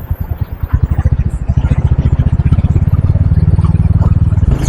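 Wind buffeting the microphone of a moving motorcycle: a loud, fluttering low rumble, with the bike's running noise beneath it.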